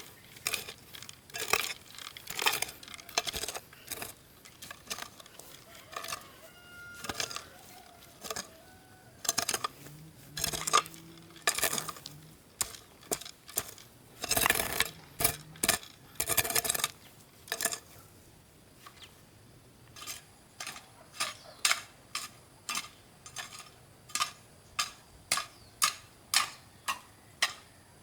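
A series of sharp clinks and knocks, like hard objects or tools striking. It is irregular at first, then settles into a steady run of about two strikes a second in the last third.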